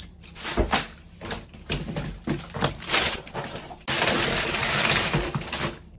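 Kitchen food-prep handling: a run of irregular clicks and knocks as containers and packaging are handled. About four seconds in, a steady rushing hiss starts and lasts about two seconds.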